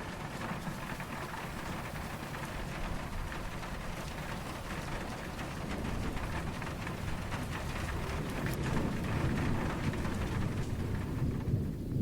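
Steady rain falling, with low distant thunder rumbling underneath and swelling louder in the second half.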